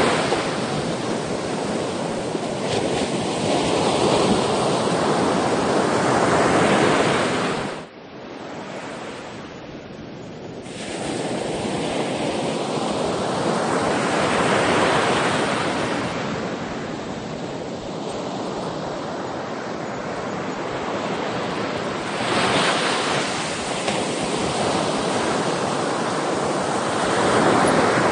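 Ocean surf: waves breaking and washing in, the rush swelling and fading every few seconds. About eight seconds in the level drops suddenly for a couple of seconds, then the surf comes back.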